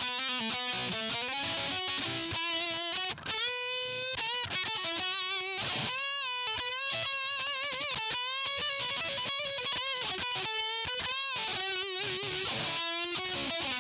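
Electric guitar played through a CoolMusic Insane Distortion pedal: single-note lead lines with frequent note changes and wide vibrato on held notes.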